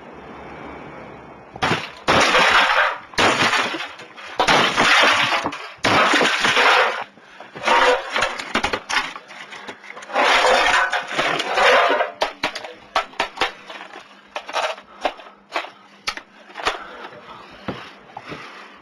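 Video recorder being smashed to pieces: about six loud breaking crashes, then a run of smaller clattering knocks and cracks as the parts break up.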